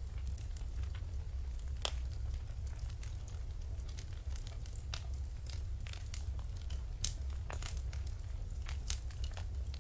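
Fire burning in a fireplace, crackling with irregular sharp pops and snaps over a steady low rumble. Two pops stand out as louder, about two seconds in and about seven seconds in.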